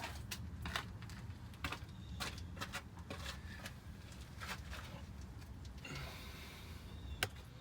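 Scattered light clicks and knocks of hands and tools handling the work, with a brief hiss about six seconds in and a sharp click just after seven seconds.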